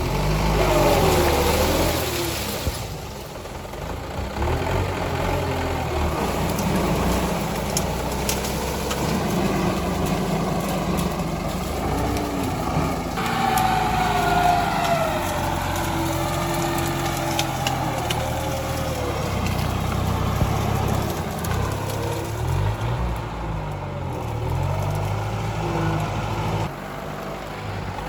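Tractor diesel engine running steadily while clearing brush, its pitch rising and falling at times, with scattered sharp cracks and clicks over it.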